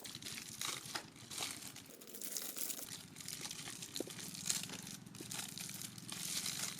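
Crinkling and tearing of plastic sweet wrappers as chocolates are unwrapped by hand, in many small irregular crackles. A faint steady hum joins about halfway through.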